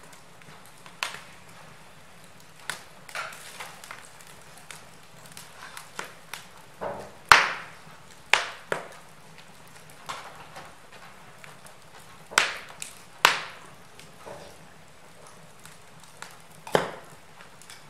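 Wood fire in a fireplace crackling: irregular sharp pops and snaps over a faint low hiss, with the loudest snaps bunched from about seven to thirteen seconds in and one more near the end.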